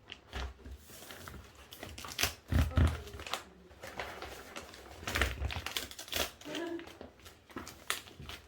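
Pieces of cardboard and milk carton being handled and fitted: irregular taps, knocks and rustling, with a few heavier thumps.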